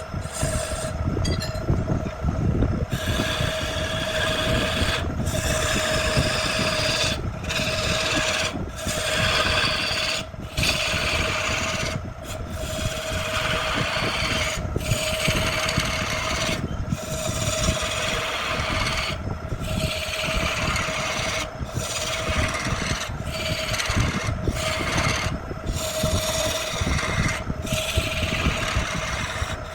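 Wood being worked with an abrasive tool, sanded or rasped in a long run of strokes, each a second or two long with brief breaks between. A steady hum from a running motor lies underneath.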